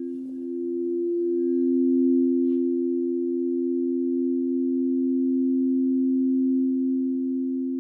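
Singing bowls sounding two sustained, steady pure tones together, swelling gently in loudness.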